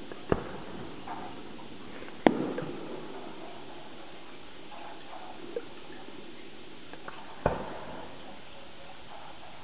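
Fireworks going off: three sharp bangs, the loudest about two seconds in, each with a short echoing tail, and a couple of fainter pops between them.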